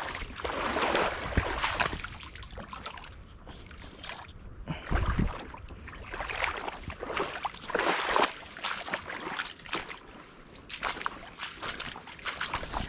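Footsteps wading through shallow water on a flooded trail, an uneven run of splashes and sloshes about once a second.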